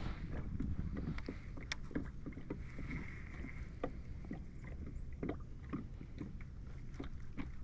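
Small fishing boat's hull on the water: irregular light knocks and taps, about one or two a second, over a low steady rumble.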